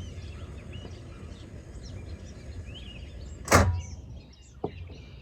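Low steady rumble of a camping stove with water boiling in a kettle, while small birds chirp. A single loud knock about three and a half seconds in, a sharp click about a second later, and the rumble dies down after the knock.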